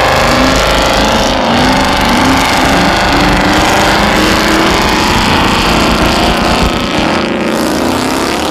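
Car engines running loudly, with short rising revs repeating about once a second.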